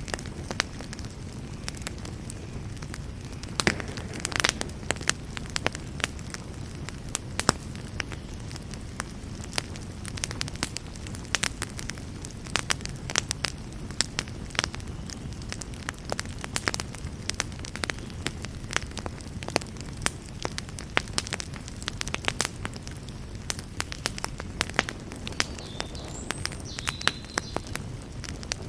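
Wood campfire burning, with a steady low rumble of flame and irregular sharp crackles and pops, a few of them louder.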